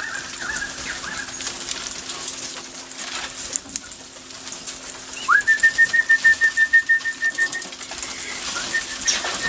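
Wild birds calling. About five seconds in, a bird starts a rapid run of short whistled notes on one steady pitch that lasts about two seconds, and it comes again more faintly near the end. It is an alarm call, which is taken as a warning that a wedge-tailed eagle is near.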